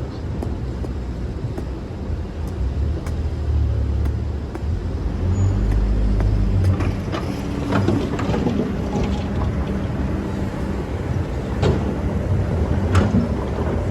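Excavator's diesel engine running, its note swelling and shifting as the hydraulics take load, with scattered knocks and clatter from about halfway through as the bucket works the sand.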